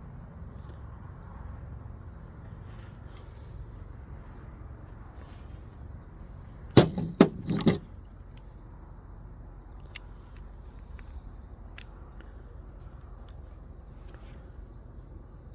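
Crickets chirping steadily in the background, with a brief cluster of three or four sharp clanks about seven seconds in, old metal hand tools knocking together as they are handled.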